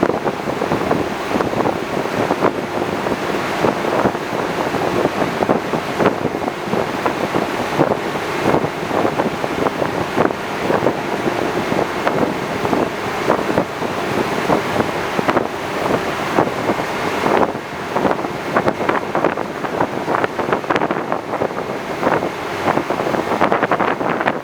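Wind buffeting the microphone hard over the steady rush of water and engine noise of an Austal 40 m high-speed catamaran ferry under way.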